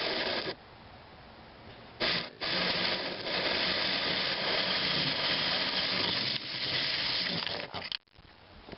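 A camera rubbing against a surface as it slides down, heard through its own microphone as a steady scraping hiss lasting about five seconds, after a brief burst at the start.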